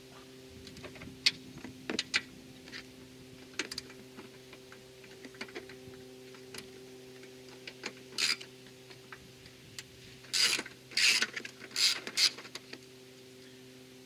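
Socket ratchet loosening the 14 mm bolts on top of a car's front strut tower: scattered sharp clicks and knocks, then several short runs of ratchet clicking in the second half.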